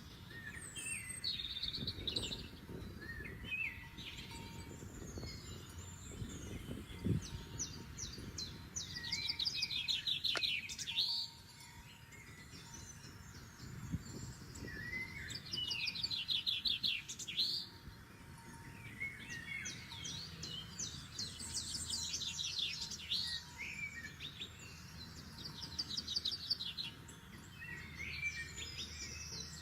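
Forest songbirds singing, one repeating a rapid trilled phrase about two seconds long every few seconds, with other chirps between, over a steady low rushing background.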